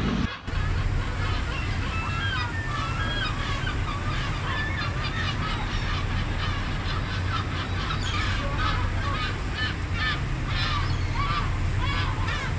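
A flock of gulls calling, many short overlapping cries, over a steady low rumble.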